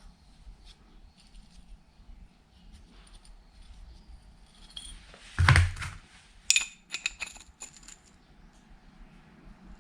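Small metal parts being handled: a heavy thump about halfway through, then a quick run of light metallic clinks that ring briefly.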